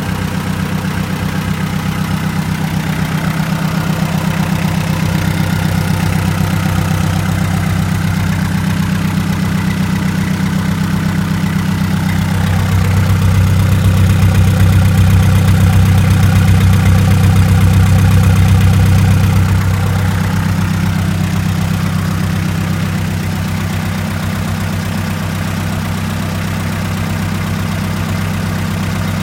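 Hyundai D4BB four-cylinder diesel engine idling steadily. About halfway through it runs louder for several seconds, then settles back to idle.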